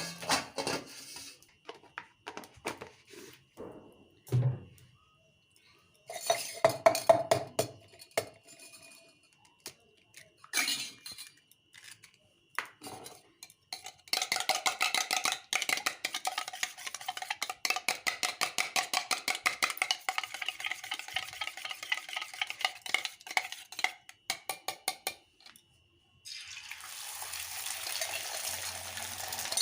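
Kitchen utensil sounds: scattered clinks and knocks of utensils and dishes, then from about halfway a long run of rapid, even strokes of a metal utensil clinking against a bowl, as in whisking or stirring. Near the end, a steady sizzle of frying starts.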